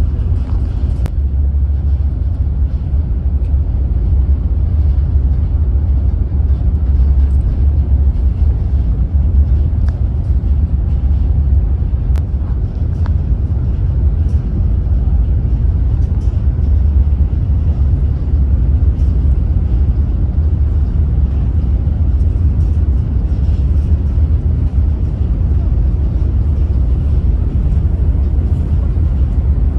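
Steady low engine rumble that holds evenly throughout, with a few faint clicks.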